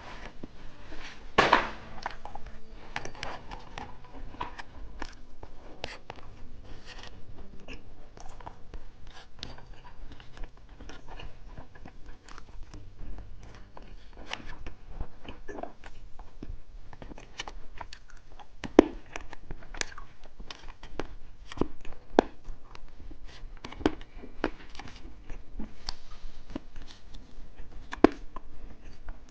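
Close-miked chewing and crunching of hard candy, with many short sharp crunches and mouth clicks. A loud crunch comes about a second and a half in.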